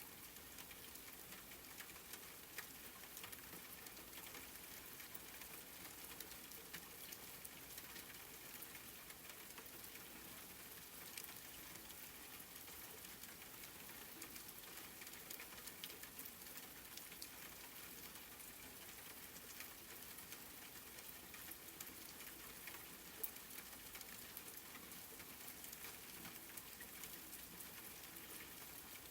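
Soft, steady rain pattering down, a fine hiss of many small drops with the odd louder single drop standing out.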